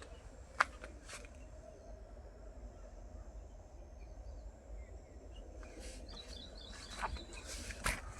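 Bird chirping rapidly and repeatedly, starting about six seconds in, over a low, steady outdoor background with a few sharp clicks.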